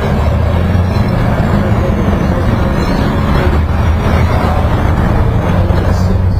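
Motorcycle engine running steadily, a loud, even, low-pitched sound with no change in speed.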